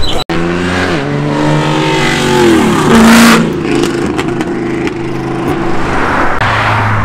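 Sports car accelerating hard along the road and passing by: a loud engine note whose pitch falls as the car goes past, loudest about three seconds in, followed by a steadier, lower engine sound.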